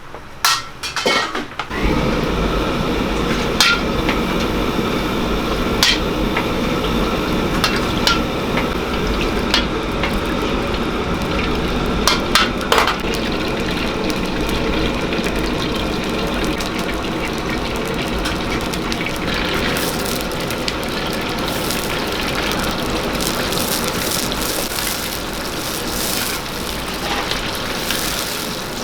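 Wok stir-frying: food sizzling steadily in hot oil, with a metal ladle clanking against the wok now and then. The sizzle comes on in full about two seconds in.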